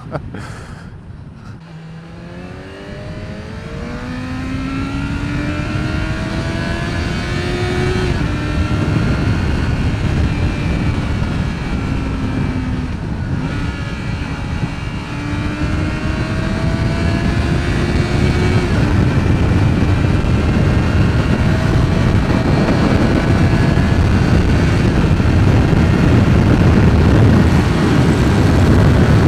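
Inline-four motorcycle engine pulling away and accelerating through the gears, its pitch rising in each gear and dropping at each of several upshifts. Wind rush on the microphone grows louder as the speed builds.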